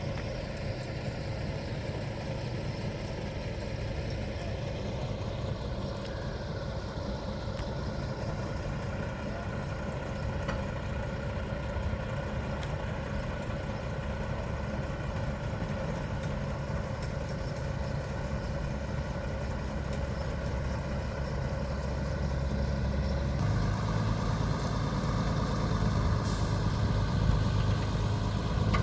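An engine running steadily at idle. About 23 seconds in it picks up to a higher, louder note.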